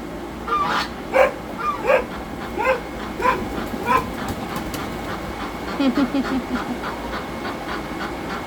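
Domestic ducks and geese calling. A string of calls comes about every two-thirds of a second for the first four seconds, then a quick run of lower quacks about six seconds in.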